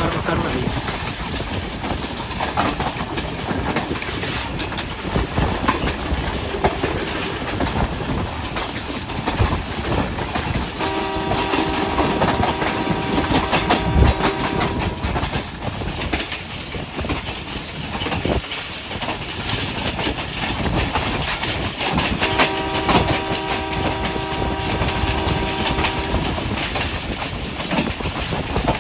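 Passenger train running, with a steady clatter of wheels on the rails. Its horn sounds twice, each blast a steady chord lasting about four seconds, the first about eleven seconds in and the second about twenty-two seconds in.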